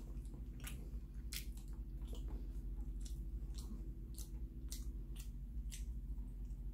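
A person chewing a mouthful of flaky bread pastry, with short soft mouth clicks about twice a second.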